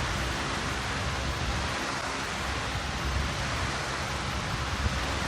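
Electric fan blowing air onto a smartphone microphone covered by a foam hair-roller windscreen: a steady rush of wind noise with a fluctuating low rumble.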